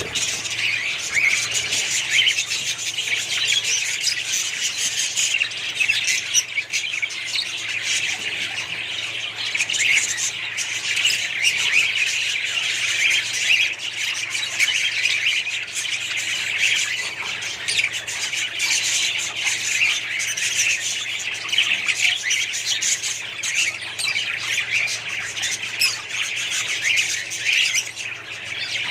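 A flock of small pet parrots calling all at once: a dense, continuous din of high-pitched chatter that keeps up without a break.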